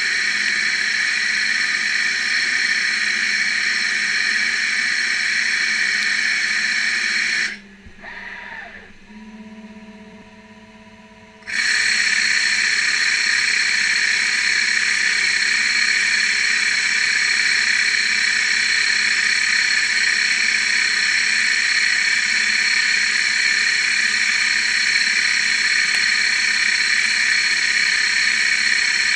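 CNC lathe machining stainless steel: a loud, steady hissing machine noise with a steady whine in it. About a third of the way in, the noise cuts out for roughly four seconds, with a falling whine and a couple of steady tones, then starts again at full level.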